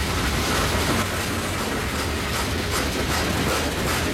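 Steel wheels of a long freight train of loaded open-top coke hopper cars rolling past at speed. A steady rumble and rush, with repeated clacks as the wheels cross the rail joints.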